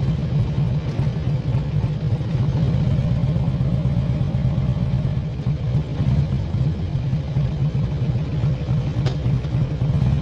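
Harley-Davidson V-twin engine running steadily at low road speed, a deep, even rumble, with a short click about nine seconds in.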